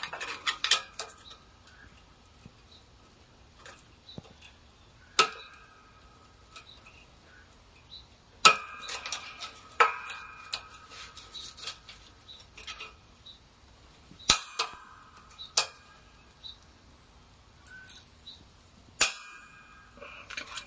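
Metal tools and parts clanking on a workbench: a handful of sharp metallic clanks spaced a few seconds apart, each ringing briefly, with quieter clinks between.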